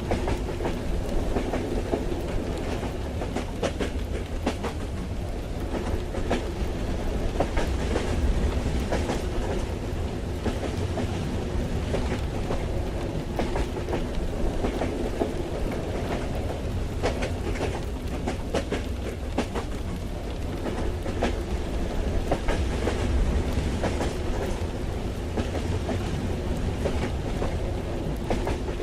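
Moving train heard from inside the carriage: a steady low rumble with irregular clicking of the wheels over the rails, and rain on the carriage.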